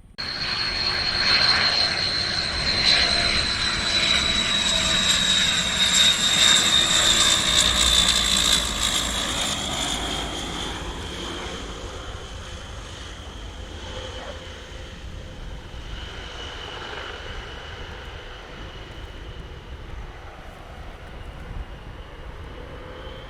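Rolls-Royce Dart turboprop engines of a YS-11 passing, with their characteristic high whine over the propeller noise. The sound is loudest in the first several seconds, then fades as the whine slowly drops in pitch.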